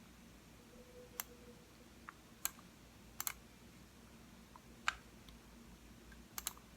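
Computer mouse buttons clicking: about half a dozen single clicks spaced a second or so apart, with a couple of quick double clicks.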